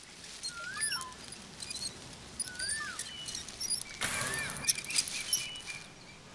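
Birds calling: a whistled call that rises and falls, repeated three times about two seconds apart, with higher chirps and a few clicks. A brief rushing noise comes about four seconds in.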